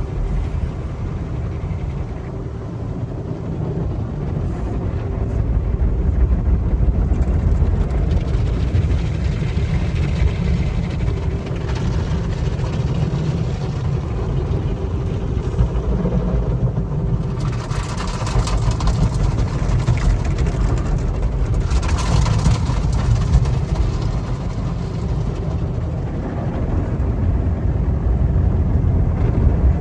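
Automatic car wash at work on a car: a steady low rumble, with two spells of louder hissing noise in the second half.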